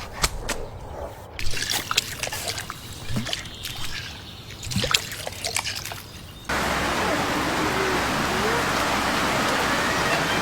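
Irregular clicks and small knocks, then about six and a half seconds in an abrupt cut to a steady trickle of running water, with a few faint rising whistles over it.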